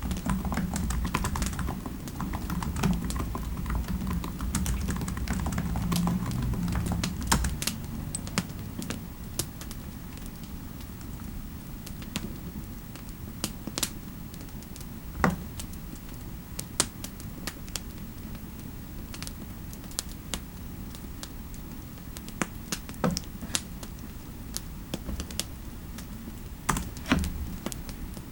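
Typing on a computer keyboard, brisk for the first seven seconds or so, then thinning to scattered, irregular key clicks over a steady low background hiss.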